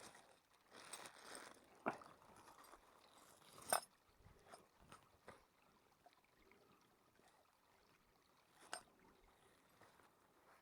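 Near silence broken by a few faint, sharp crunches and clicks, the loudest almost four seconds in.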